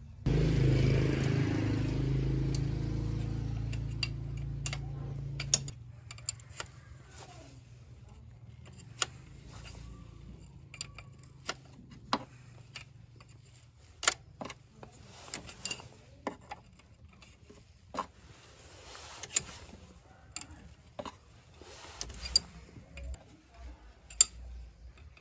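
A motor runs steadily with a low hum for about five and a half seconds, then cuts off. It is followed by scattered sharp metallic clicks and knocks of hand work on parts.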